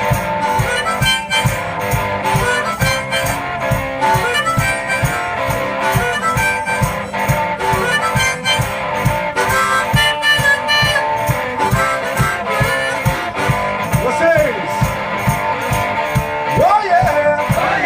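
One-man band playing a blues instrumental: a harmonica carries the lead over strummed guitar and a steady low beat, with bending notes near the end.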